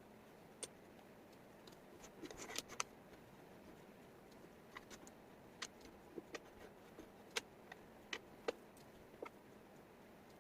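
Wooden jigsaw puzzle pieces clicking and tapping against each other and the table, in sharp, irregular clicks with a quick flurry about two to three seconds in, over faint room hiss.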